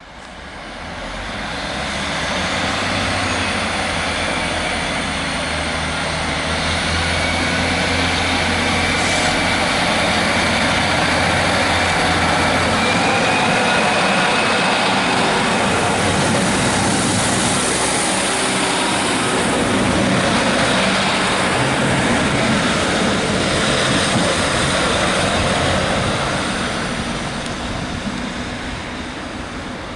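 A passenger train running through the station. Its sound builds over a couple of seconds, stays loud for over twenty seconds with a low engine drone in the first half and a high thin whine, then fades away near the end.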